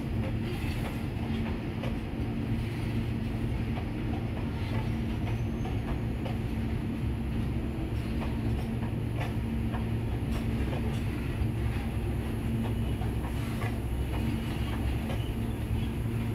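Goods train's covered wagons rolling past: a steady rumble of steel wheels on the rails, with a steady low hum underneath and scattered faint clicks from the wheels and couplings.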